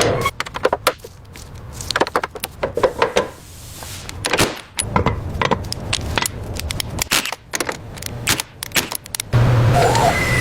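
Irregular knocks, clicks and clatter of hand work in a workshop, with a steady low hum of a motor starting near the end.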